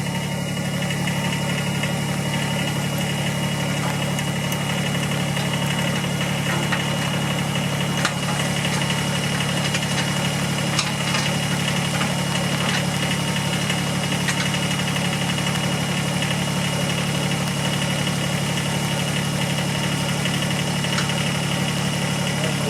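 Kubota tractor's diesel engine running steadily, with a few sharp clicks or knocks over it.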